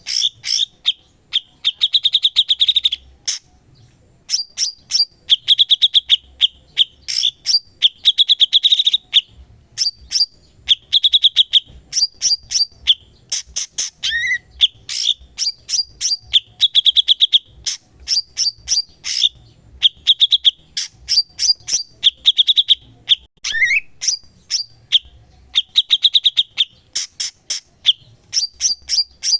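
Cucak cungkok songbird singing full and continuously: fast staccato chattering phrases of rapid clicks and buzzy trills, repeated every second or two with short gaps. It gives two brief rising whistled notes, about halfway through and again a few seconds later.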